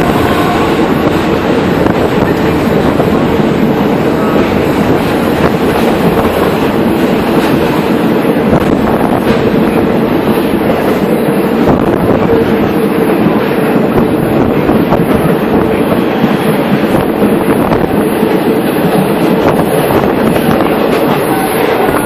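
A moving train heard from on board, a loud steady rumble of wheels running on the rails, with wind rushing past the microphone.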